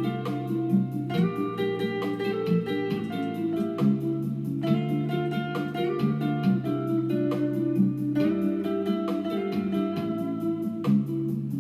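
Guitar music: a plucked, strummed guitar pattern over a steady bass line, with no singing.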